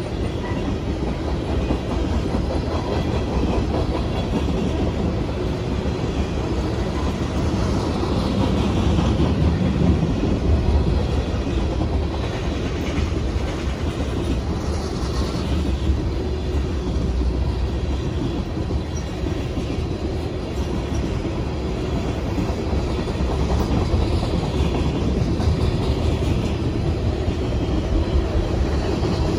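A freight train's tank cars rolling past, a steady rumble of steel wheels on the rails, with now and then a faint high wheel squeal.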